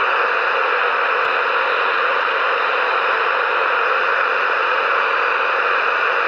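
CB radio receiver hiss: a loud, steady rush of static from the radio's speaker, with no voice on the channel.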